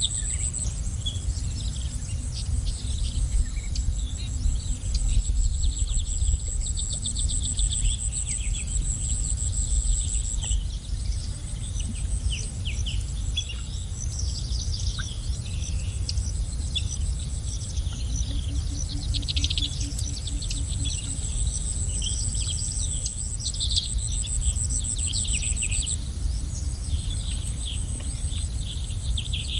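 Many small birds chirping and twittering over a steady high insect trill, with a low rumble of background noise underneath.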